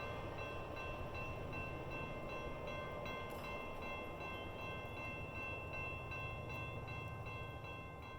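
Passenger train rumbling over a rural level crossing while the crossing bell keeps ringing in steady repeated strokes. The rumble slowly fades toward the end.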